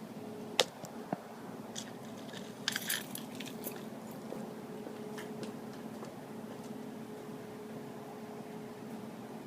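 Keys jangling, with a few sharp clicks and a cluster of jingling about three seconds in, over a faint steady hum.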